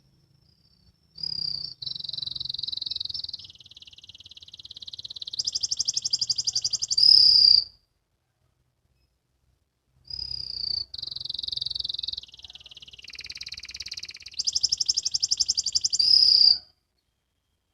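Canary song in the rapid 'ngriwik' trill style: two near-identical phrases of about six seconds each, separated by a couple of seconds of silence. Each phrase runs through several fast, evenly pulsed trills and ends on its loudest, highest rolling note.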